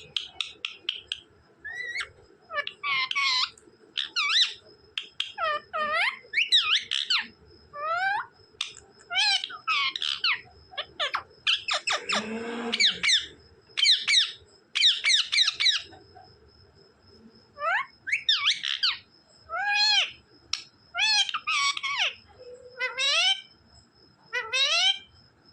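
Pet parrot calling and chattering: a long string of short whistled and squawky calls, many sweeping up or down in pitch, one after another with brief pauses between them.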